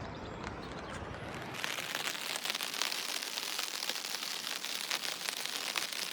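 Rain falling: a dense hiss of many small drop ticks. About a second and a half in it changes suddenly to a brighter, louder hiss.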